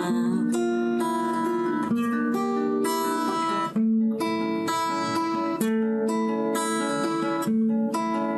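Acoustic guitar fingerpicked in an arpeggio pattern, no voice, running through a four-chord minor progression (Cm, G#, Fm, G) that changes about every two seconds.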